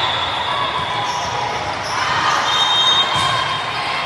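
Gym ambience during a youth club match: spectators murmuring in a large echoing hall, with brief high squeaks about two and a half seconds in.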